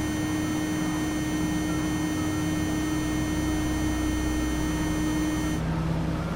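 Douglas DC-3's twin piston engines and propellers droning steadily, heard inside the cabin. A thin high whine over the drone cuts off near the end.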